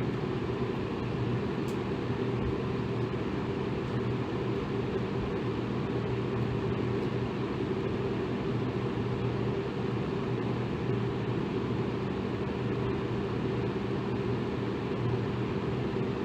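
Electric fan running steadily: an even rush of moving air, heaviest in the low range, with a faint steady motor hum.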